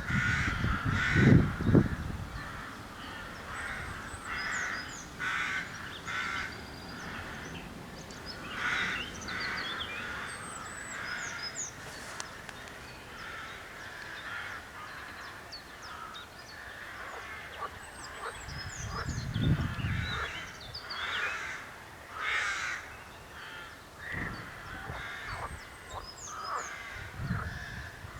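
Crows cawing over and over, with small birds chirping high above them and a few low rumbles in between.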